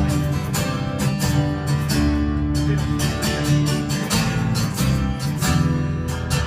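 Strummed guitar chords in a steady rhythm over a low bass line: an instrumental passage of a song, with no singing.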